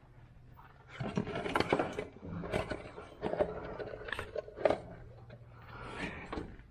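Irregular clunks, knocks and scrapes of handling at the UTV's oil fill point while oil is being poured in through a funnel.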